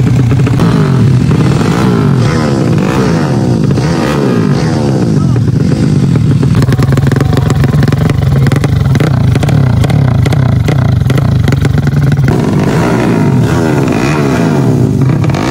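Drag-race motorcycle engines revving hard, the pitch rising and falling again and again, with crackling in the middle of the stretch.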